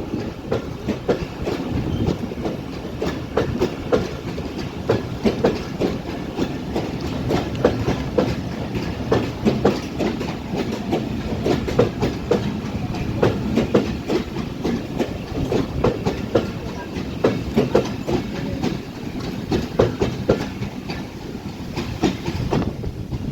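Passenger train running on the rails with a steady rumble and repeated clickety-clack knocks as its wheels pass over rail joints.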